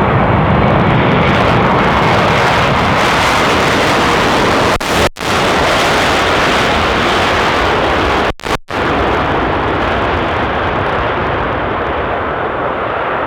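Loud, steady noise of a jet airliner's engines passing close by. It cuts out for an instant about five seconds in and twice more around eight and a half seconds.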